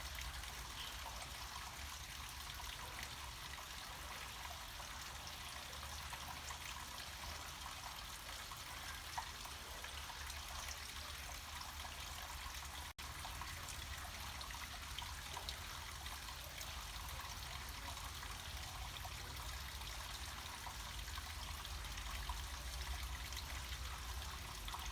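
Small mountain stream or cascade of water flowing and splashing steadily, with a low rumble underneath. A split-second dropout about halfway through.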